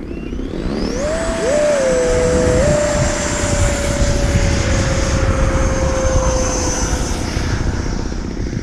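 Strong wind rushing and buffeting, with a whistling tone that rises about a second in and then holds, slowly sagging in pitch.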